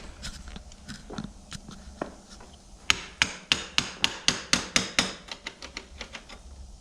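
Small hammer tapping metal on metal against a roller-chain master link to drive it loose. A few light taps come first, then a quick run of about a dozen sharp strikes, about five a second, then a few lighter taps. The link is stuck and slow to come free.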